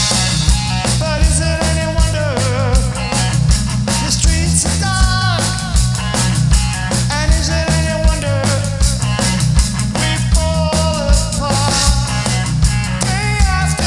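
Live rock band playing: drum kit keeping a steady beat, bass, and a lead melody line that bends and slides in pitch.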